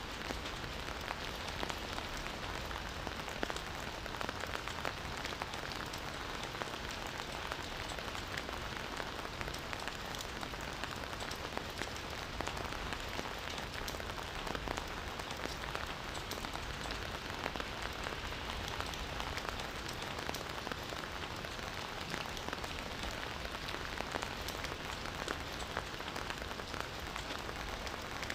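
Steady rain: an even hiss thick with the ticks of single drops landing.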